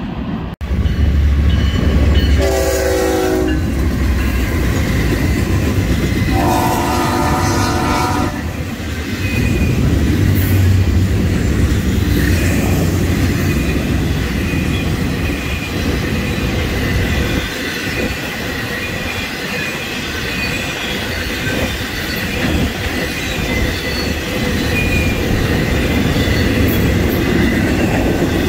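Florida East Coast Railway freight train passing at a crossing. The locomotive horn sounds two blasts a few seconds in, the second longer and higher. Then a long string of double-stack container cars rolls by with steady wheel rumble and clatter and faint high wheel squeals.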